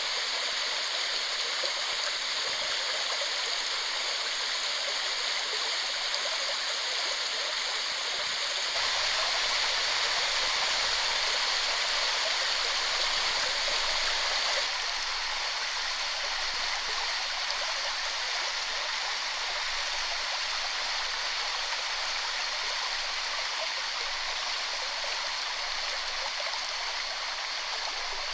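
Waterfall: falling water rushing steadily. It gets a little louder and fuller from about 9 seconds in, then eases back about 15 seconds in.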